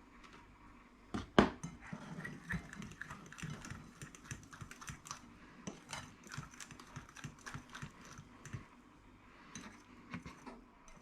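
A utensil beating a stiff egg-white and icing-sugar mixture in a bowl: rapid, irregular clicks and scrapes against the bowl. It starts with a loud knock about a second in and dies away near the end.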